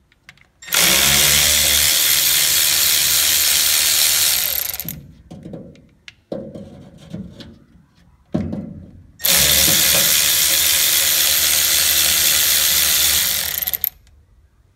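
Cordless electric ratchet running in two steady bursts of about four seconds each, spinning out the bolts on a gas pump's control valve cover. Smaller knocks and handling noises come between the two runs.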